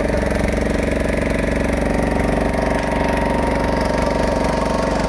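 A boat's engine running steadily at an even speed, with a fast regular firing rhythm.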